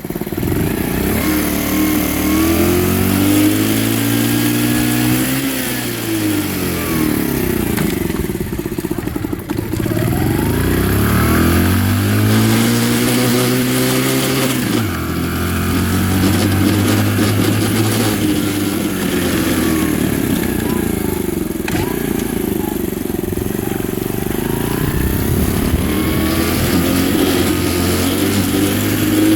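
Jincheng Dax minibike's single-cylinder engine being revved up and down several times. It rattles and vibrates hard at one particular engine speed, a fault whose cause the owner does not know.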